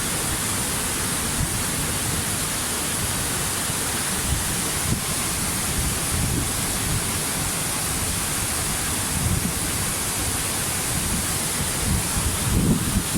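Waterfall: a steady, even rush of falling water. A few low buffets come near the end.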